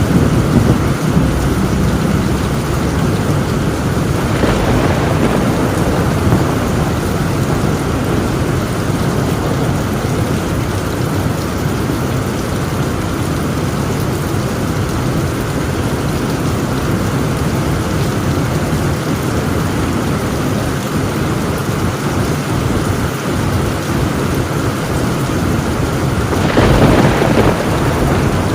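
Torrential rain pounding steadily on a tin roof, with thunder rolling underneath; two louder claps of thunder swell up, about four seconds in and again near the end.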